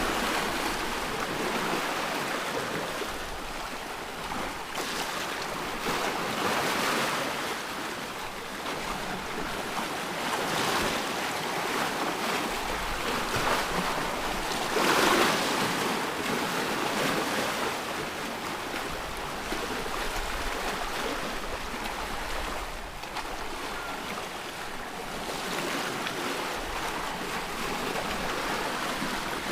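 Ocean waves breaking and washing in, a continuous rushing that swells and ebbs every few seconds, with one stronger surge about halfway through.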